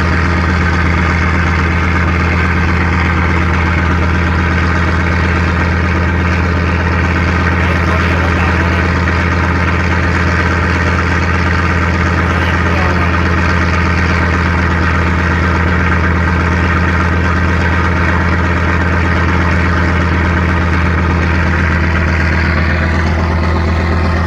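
A boat's inboard engine running steadily with a strong, low, unchanging hum.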